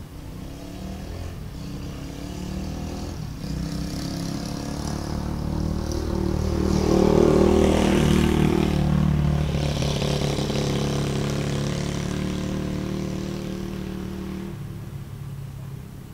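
Dirt bike engine passing by: it grows steadily louder, peaks about halfway through, then fades away.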